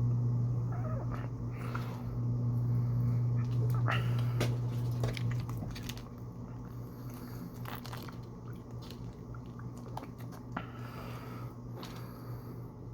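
Close-miked eating: biting into and chewing fast food, with many short crunchy clicks and mouth noises. Under it runs a steady low hum, loud for the first half and then dropping to a softer level.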